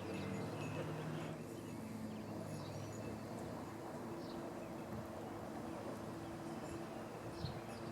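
Small backyard birds such as finches and sparrows giving a few short, high chirps now and then, over a steady low mechanical hum.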